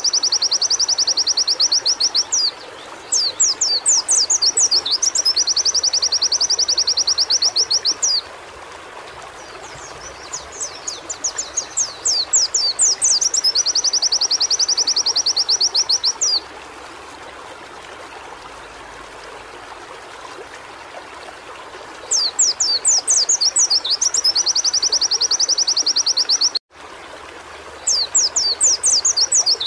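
Pleci (white-eye) singing repeated phrases, each a few quick high sweeping notes running into a long, fast, even trill, over a steady background hiss. There is a pause of several seconds in the middle.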